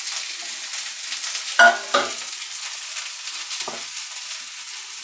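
Sliced onions, garlic and ginger sizzling in hot mustard oil in a kadai while being stirred, a steady crackling sizzle, with a brief louder clatter about two seconds in.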